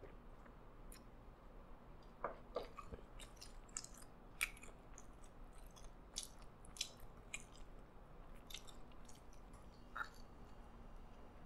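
Close-miked mouth sounds of a person chewing a burger: an irregular run of short, wet clicks and smacks, busiest in the middle of the stretch.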